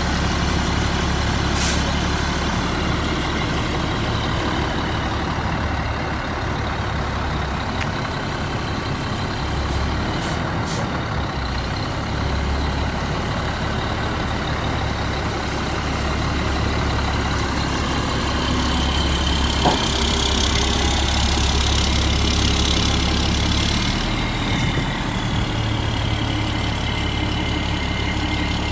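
Caterpillar turbo diesel engine of a 2003 Sterling RT9500 hook truck idling steadily, with a few short clicks and a louder hiss for a few seconds about twenty seconds in.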